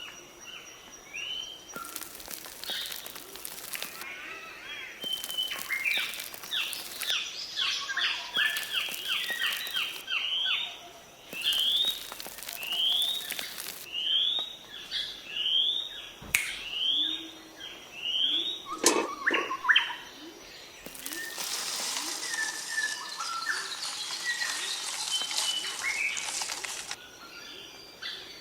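Small birds chirping outdoors, mostly a repeated short rising call about once a second. Several stretches of rustling noise and a sharp click come in between the calls.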